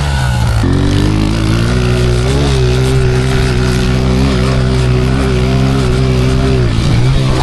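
Pit bike engine running. Its revs drop in the first second, then hold steady with a brief dip near the end.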